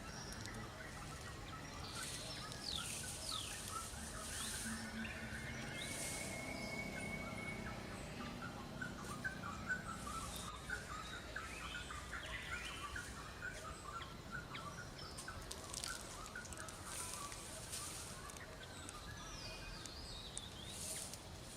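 Forest ambience with birds chirping over a steady background hiss, with a quick run of short calls in the middle.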